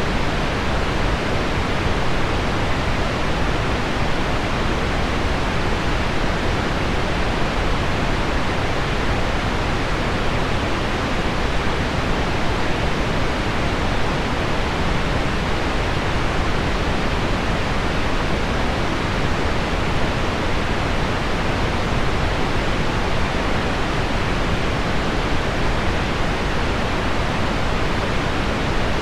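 Steady pink noise blended with heavy rain on window glass: an even, dull hiss, weighted toward the low end, that never changes.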